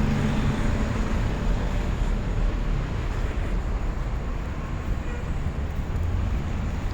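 Steady low rumble of blizzard wind buffeting the microphone, mixed with street traffic.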